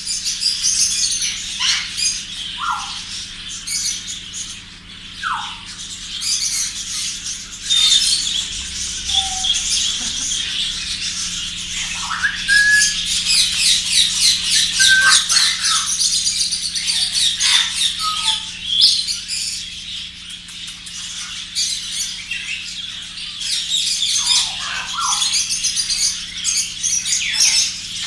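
A crowd of caged parrots and other birds chattering all at once, a dense high twittering with short whistles and squawks breaking out every few seconds, over a faint steady hum.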